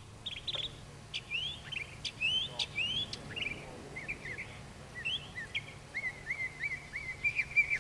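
Birds chirping: many short, rising chirps, then a run of quick repeated notes near the end. A faint steady low hum runs underneath.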